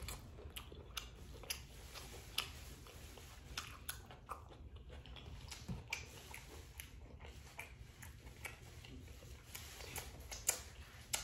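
Faint chewing and mouth sounds of someone eating a mouthful of shrimp boil, with irregular soft wet clicks and lip smacks, and fingers being licked near the end.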